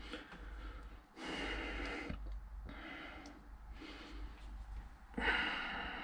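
A person breathing audibly close to the microphone: four hissy breaths, the longest and loudest near the end.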